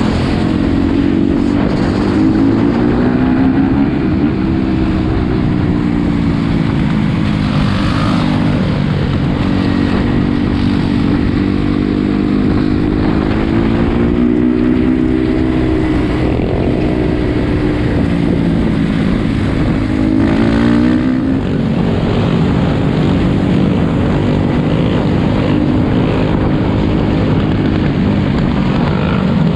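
Four-wheeler (ATV) engines running and revving hard, their pitch rising and falling again and again, with one sharp rev-up about 20 seconds in, over a constant engine drone.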